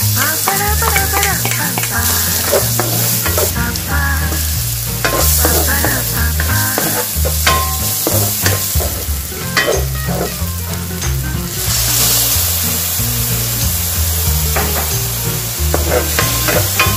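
Minced onion and garlic sizzling in hot oil in a stainless-steel wok, stirred and scraped with a wooden spatula in quick short strokes over a steady hiss.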